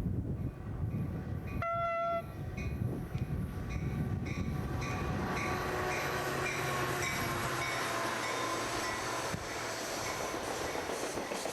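Diesel train running with a steady low rumble. A short locomotive horn blast sounds about two seconds in, followed by an even series of clicks, about two or three a second, for several seconds.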